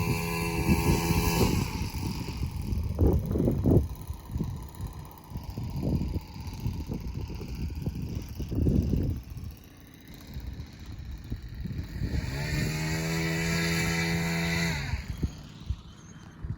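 The electric ducted-fan motors of an RC F-22 Raptor jet buzzing steadily. The buzz fades out early, and comes back for about three seconds near the end. In between, wind gusts rumble on the microphone.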